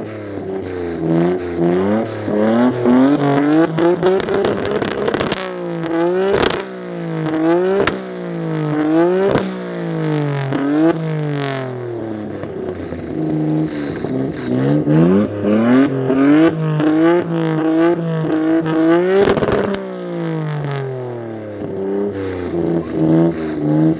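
Car engine revving hard again and again, its pitch climbing and then falling back, with sharp cracks at several of the drops.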